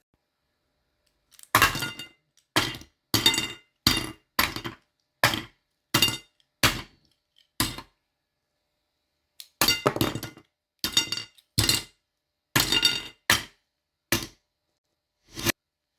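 Small mini collectible toys being handled, giving a string of short, sharp clicks and clinks. They come in two runs with a pause of about two seconds near the middle.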